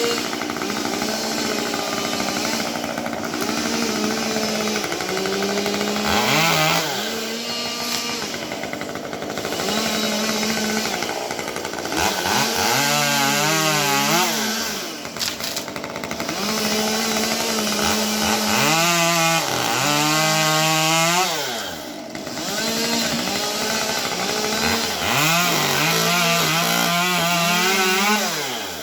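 Two-stroke chainsaw running at high revs, its engine pitch dropping and climbing again four times, about every six or seven seconds, as it bogs under load and frees up.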